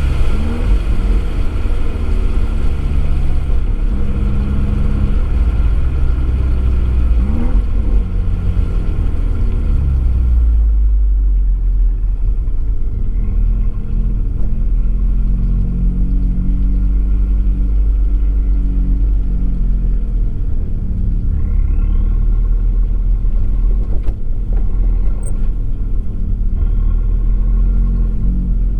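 Abarth 595 Esseesse's turbocharged four-cylinder engine running through an Akrapovič exhaust, heard from a microphone in the boot. Revs climb and drop over the first ten seconds with a hiss on top; the hiss then falls away and the engine settles to lower, steadier running with a deep rumble.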